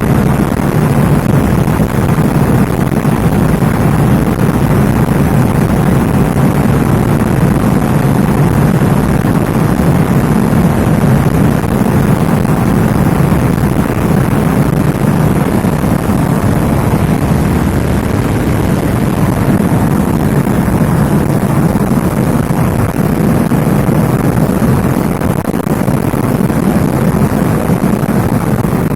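Lada Priora's 1.6-litre 16-valve four-cylinder engine (VAZ-21126) with a short 4-1 header and an insert in place of the catalytic converter, running steadily under way, mixed with road noise heard from inside the cabin.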